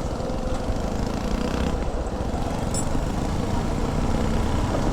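Motorcycle engine running while riding, with steady wind rumble on the helmet-mounted microphone.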